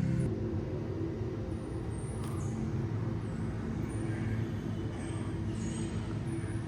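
Steady low mechanical rumble, like a vehicle running, with a few faint high falling chirps over it.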